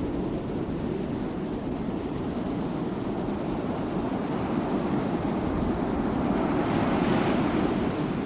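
Sea waves washing in: a steady low surf rumble, with a wave swelling louder and brighter near the end.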